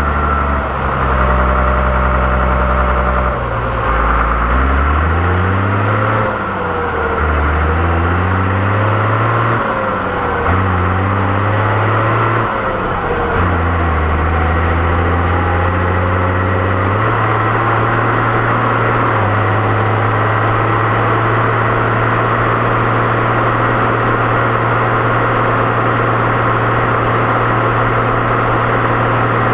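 Deutz-Fahr 6.61 tractor's turbocharged diesel engine under way. Its revs climb and drop back about four times in the first half, as when working up through the gears, with a high turbo whistle rising and falling along with them. It then runs at a steady speed, stepping up once.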